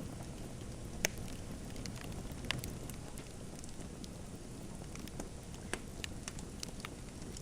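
Wood fire crackling: a steady low rush of burning with scattered sharp pops, the loudest about a second in and another about two and a half seconds in, then several smaller ones near the end.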